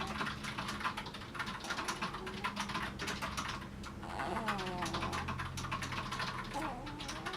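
Rapid, irregular clicking and crackling noise made by someone asleep, with a few short squeaky glides about four seconds in.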